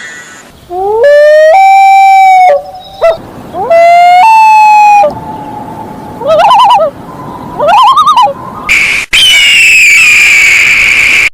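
Loud bird calls: two wailing calls that rise and then hold a steady pitch, followed by two quick wavering calls, then a harsher, higher call that slides slowly down in pitch from about nine seconds in.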